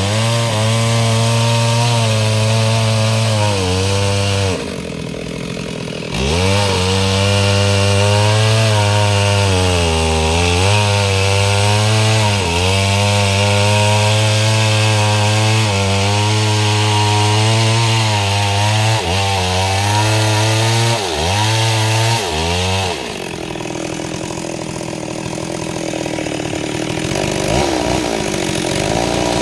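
STIHL MS 382 two-stroke chainsaw with a 30-inch bar running at full throttle while cutting mahogany, the engine pitch sagging and recovering as the chain loads up in the wood. About five seconds in it briefly drops back toward idle, and again from about 23 seconds, before revving up once more near the end.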